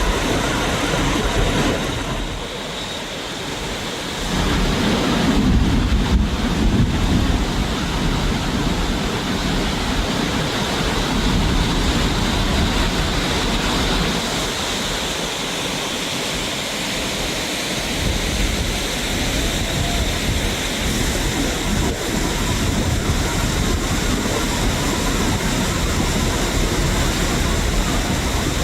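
Loud, steady rushing noise with no clear tone, dipping briefly about two seconds in and swelling again about four seconds in.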